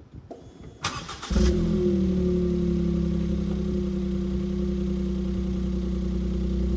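Suzuki Alto Works (HA36S) 660 cc turbocharged three-cylinder engine breathing through an HKS aftermarket muffler, starting up: about half a second of cranking, then it catches with a brief flare and settles into a steady idle.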